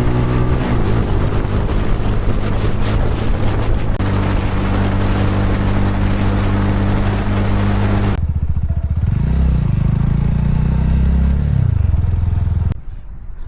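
Motorcycle engine running loud and steady in a few cut-together stretches. The pitch swings down and back up in the middle part, and the sound drops off abruptly near the end.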